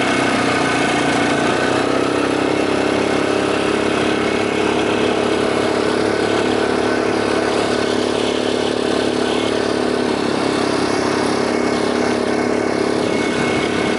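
Quad bike engine running at a steady pitch while being ridden, over a constant broad hiss.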